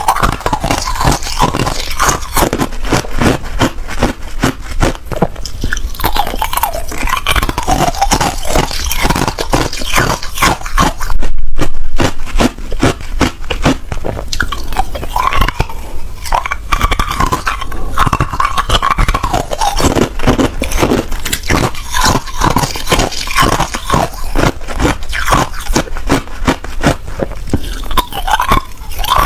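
A person biting and chewing ice in a fast, continuous run of hard crunches and cracks, with one louder stretch about eleven seconds in.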